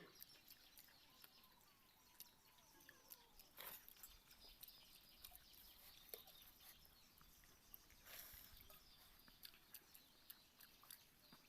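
Near silence: a quiet outdoor background with scattered faint clicks and two brief soft rustles.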